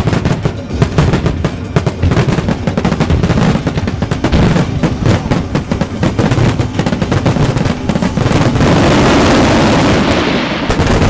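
Starmine fireworks barrage: shells bursting in rapid succession, many sharp bangs a second. Near the end the bangs blur together into a steady dense noise before easing off.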